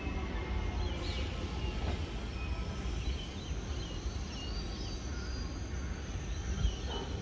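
Low, steady rumble of distant electric double-deck suburban trains moving through the station approaches, with a few faint high chirps.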